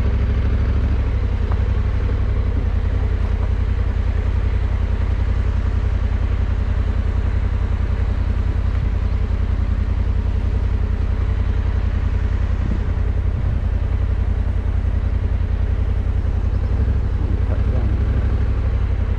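Adventure motorcycle engine running steadily at low revs, a constant low throb of firing pulses, as the bike idles and creeps along at walking pace.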